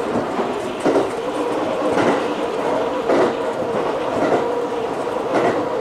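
Electric train running at speed, heard from inside the front car: its wheels clack over the rail joints about once a second above a steady running hum.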